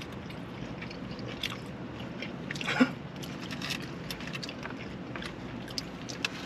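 Close-up eating sounds: a person biting and chewing food, with small wet clicks and crunches throughout and one louder, brief sound about three seconds in.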